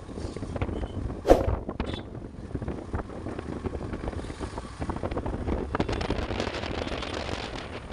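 Motorcycle running on the move, with wind buffeting the microphone, and one sharp thump a little over a second in.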